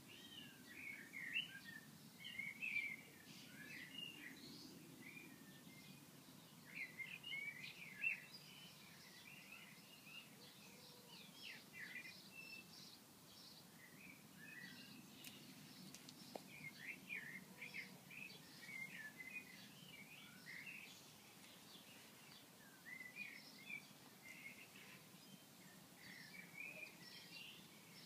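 Small birds chirping faintly in scattered bursts of quick, high notes, over a low, steady background hum.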